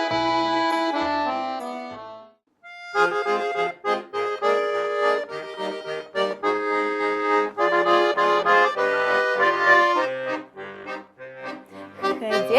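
Russian garmon (button accordion) playing. A held chord fades out about two seconds in, then after a short break a lively melody over bass-button chords begins: the instrumental introduction to a song.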